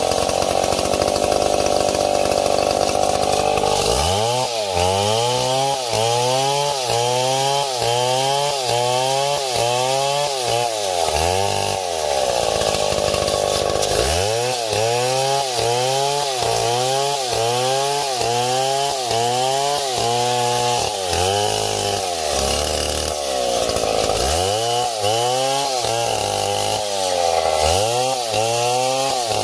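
Two-stroke chainsaw running hard and steady at first. From about four seconds in, its engine pitch dips and recovers about twice a second in long runs, broken twice by short, lower, steadier stretches.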